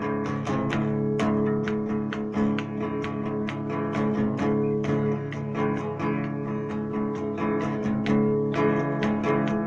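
Instrumental music led by plucked and strummed guitar, with a steady rhythm of quick picked notes over held chords.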